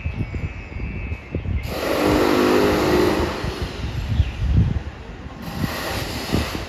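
Renovation work in a building across the street: irregular knocks and thuds, with a louder mechanical whirring for about a second and a half about two seconds in.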